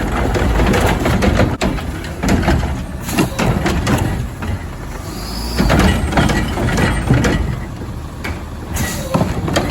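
Front-load garbage truck running with a low engine rumble, overlaid by repeated metal clanks and bangs and a brief high squeal about five seconds in.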